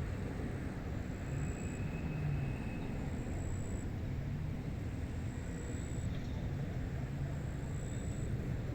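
Wind blowing steadily over a rice paddy: an even low rumble with a faint wavering hum and no distinct events.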